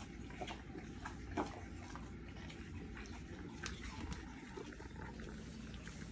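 A young Presa Canario dog making small close-by sounds: scattered soft clicks and smacks, one louder about a second and a half in, over a low steady hum.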